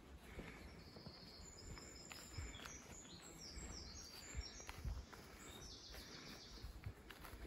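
Bird song: quick phrases of short, high notes stepping down in pitch, starting about a second in and stopping about a second before the end, over a faint low rumble with a few soft thumps.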